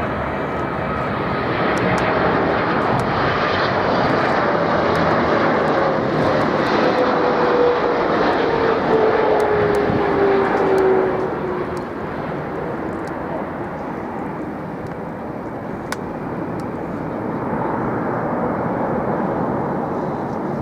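Jet airliner passing close, its engine noise building to a peak and then falling away about eleven seconds in, with a whine that slides down in pitch as it goes by.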